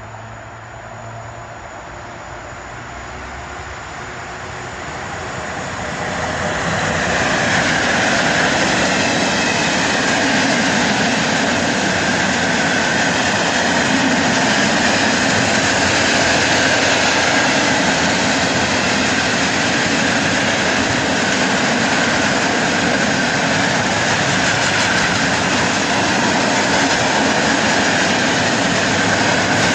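Freight train of tank wagons hauled by a PKP ET22 electric locomotive approaching and passing close by. The sound grows over the first six or seven seconds, then holds as a steady, loud rolling noise of wheels on rail as the tank wagons go by.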